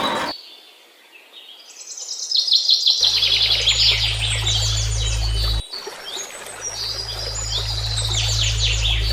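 Small birds chirping and twittering in quick runs of notes, over a low steady hum that drops out briefly midway.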